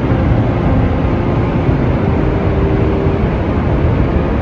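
Steady low roar of Niagara's Horseshoe Falls, heard close up from the brink outlook.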